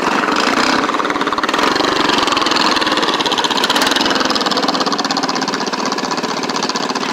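Small engine running steadily, with a fast, even firing.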